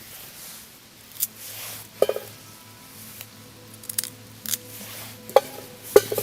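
Handling noises of camp cooking: a run of sharp clicks and light metallic clinks at irregular intervals, over a faint steady hum.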